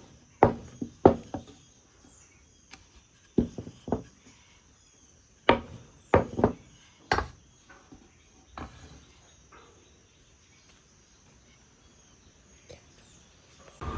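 Irregular sharp knocks and clatters of kitchen utensils being handled, about a dozen in the first nine seconds, then quiet.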